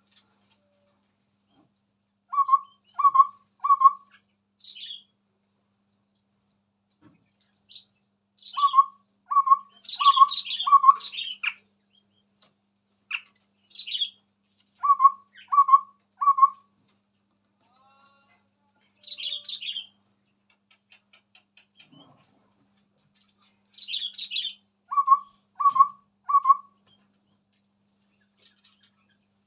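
Chestnut-rumped babbler song: groups of three or four hollow, evenly spaced whistled notes, repeated every few seconds. Between them come higher, squeakier chirps and chatter.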